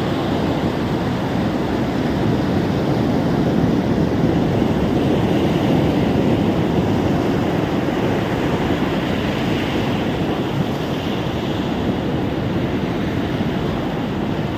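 Ocean surf washing onto a beach: a steady, even rush of breaking waves, swelling slightly a few seconds in.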